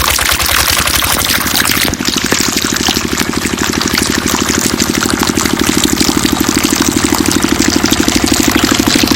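Small engine of a mini water pump running, at first ragged and then, about two seconds in, settling into a fast, even beat under a steady hiss.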